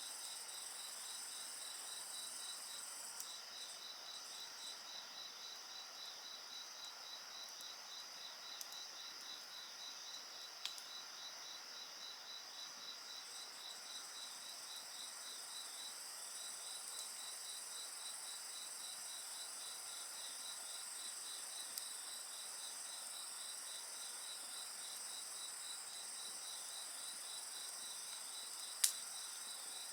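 A chorus of night insects, crickets among them, chirping in a steady rapid pulse, with a few sharp pops from a crackling wood fire, the loudest near the end.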